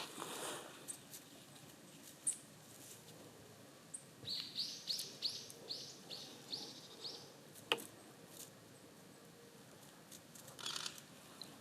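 A small songbird giving a quick series of about eight thin, down-curving chirps a few seconds in, with a single sharp tick just after and brief rustles in dry grass at the start and near the end.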